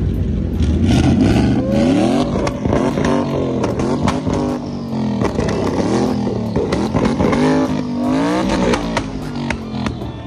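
Twin-turbocharged Ford Mustang V8 revved again and again, its pitch rising and falling through a string of revs with a last big one near the end.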